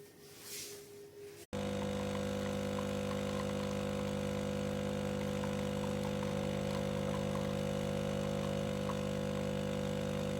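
De'Longhi Dinamica Plus bean-to-cup coffee machine running with a loud, steady, even hum. The hum starts abruptly about a second and a half in, after a faint steady tone.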